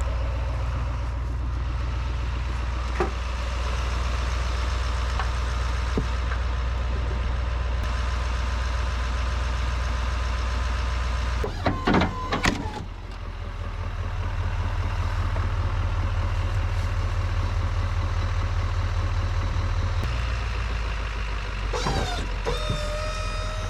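Pickup truck engine idling steadily. The note shifts about halfway through and again near the end, with a few brief knocks.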